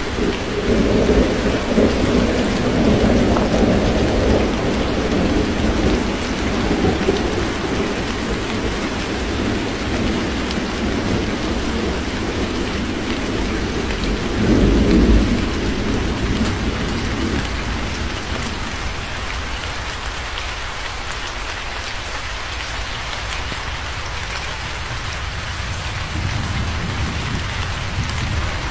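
Steady heavy rain with a long roll of thunder rumbling from the start. The thunder swells once more about fifteen seconds in and dies away by about eighteen seconds, leaving the rain alone.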